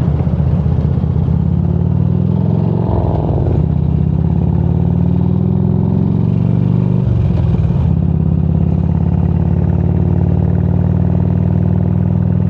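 Motorcycle engine running steadily while riding, its note breaking briefly twice, about three seconds in and again about seven seconds in.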